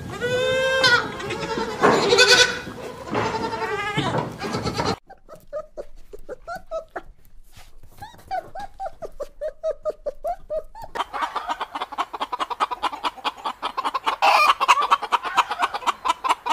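Sheep bleating several times. Then come a few seconds of a small dog's soft, short, high-pitched whines, then a flock of hens clucking in a dense, rapid chatter.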